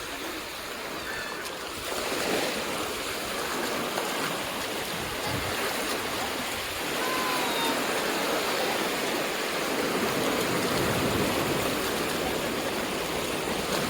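Sea surf washing onto the beach: a steady rushing noise that swells every few seconds as waves break and run up the sand.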